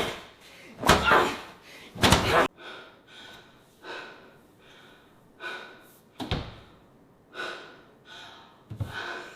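Refrigerator door slammed repeatedly: three loud slams about a second apart in the first couple of seconds, then a string of fainter thuds.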